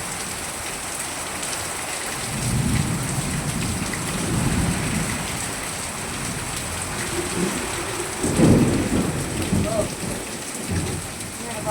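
Heavy rain pouring steadily, with low rumbling swells about two seconds in and again about eight seconds in.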